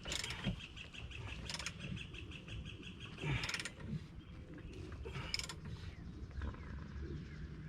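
Socket wrench ratcheting as a suspension bolt on the rear control arm is tightened: rapid clicking over the first few seconds, with a few sharper knocks and creaks as the wrench is worked in strokes.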